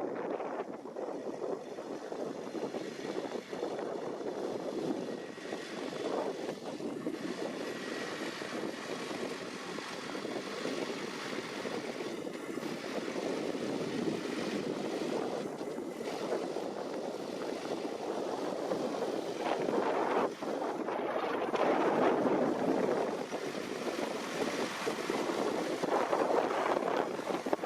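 Tractor engine running steadily under working load during potato harvesting. It grows louder over the last third.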